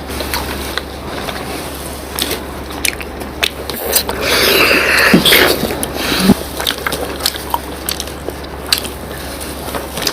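People chewing and slurping syrup-soaked rasgullas: wet mouth sounds with scattered small clicks and smacks, over a steady low hum.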